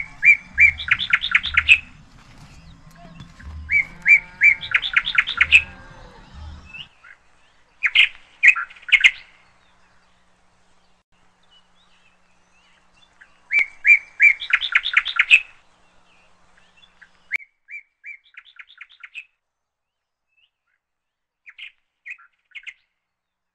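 A songbird singing: each song is a few clear notes followed by a quick run of notes, repeated three times with long pauses, with shorter snatches of song in between and near the end.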